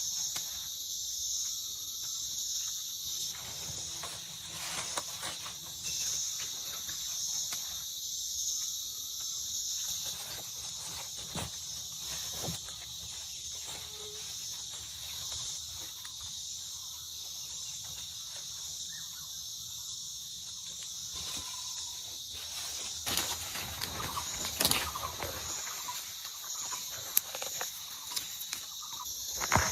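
A steady, high-pitched chorus of jungle insects, slightly pulsing. Scattered taps and crackles come in about two-thirds of the way through.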